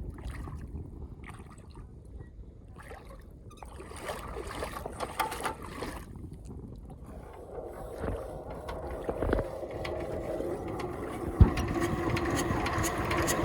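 A power tiller's diesel engine being turned over by hand while it fails to start: a low mechanical churning that becomes a steadier hum in the second half, with one sharp knock near the end.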